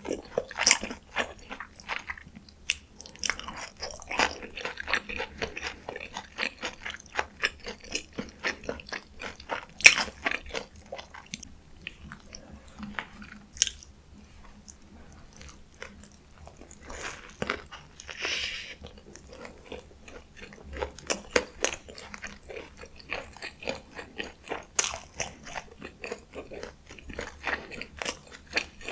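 Close-miked eating of fast food: crunchy bites and moist chewing in quick crackling bursts, easing off for a few seconds in the middle.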